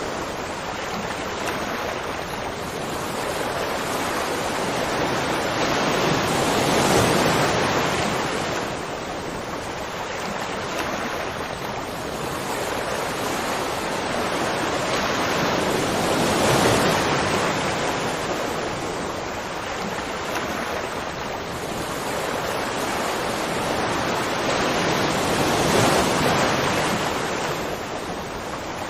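Waterfall: a steady rush of falling water that swells louder and eases off again about every nine or ten seconds.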